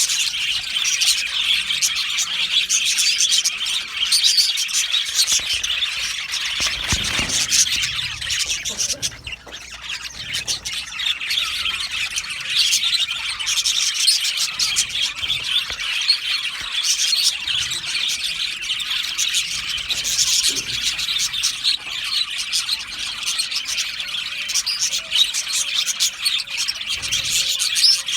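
A colony of budgerigars chattering together, a dense continuous mass of overlapping chirps and warbles that thins briefly about a third of the way through.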